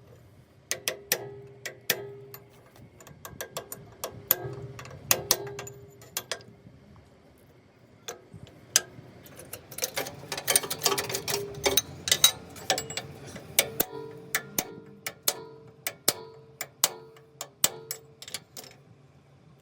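Hammer blows on metal: irregular sharp strikes, each leaving a brief ringing note, with a quick flurry of blows about halfway through.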